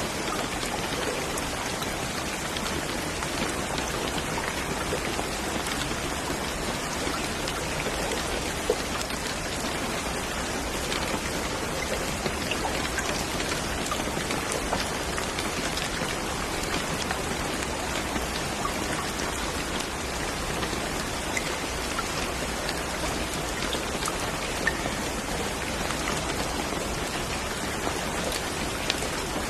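Steady rain falling, with scattered individual drops ticking and pattering on a surface and a few louder single drops.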